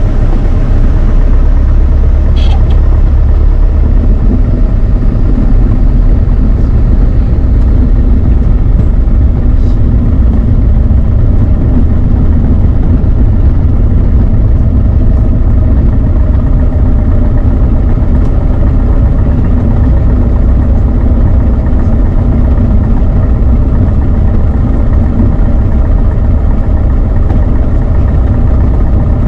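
Beechcraft Sundowner 180's four-cylinder Lycoming piston engine and propeller running at a steady cruise setting, heard as a loud, even drone inside the cockpit.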